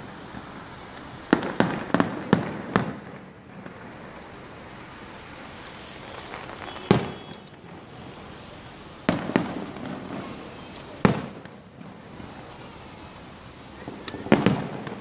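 Fireworks exploding: a quick run of bangs about a second in, then single bangs a couple of seconds apart, and another quick cluster near the end.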